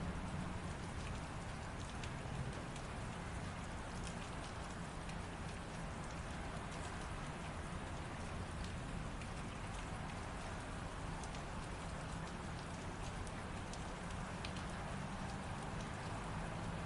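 Steady light rain, with scattered distinct drops ticking on a hard surface over an even hiss and a low rumble underneath.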